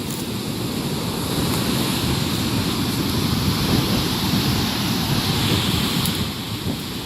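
Wind buffeting the microphone: a steady, low rushing noise that rises a little in the middle and eases near the end.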